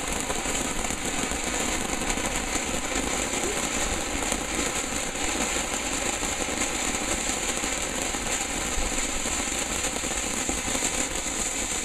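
Ground fountain firework spraying sparks, a steady hiss with rapid dense crackling that keeps an even level throughout.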